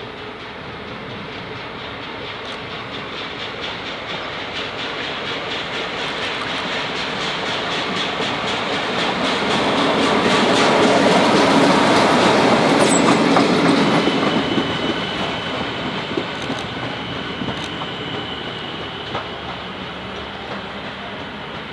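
A heritage railcar approaching and passing close by, its sound building to a peak about halfway through, with wheels clicking over rail joints. It then fades, leaving a quieter, more distant train and a thin steady whine.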